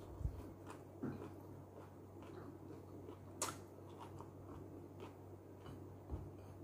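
A person chewing food close to the microphone: soft, scattered wet mouth clicks and smacks, with one sharper click about three and a half seconds in, over a faint low hum.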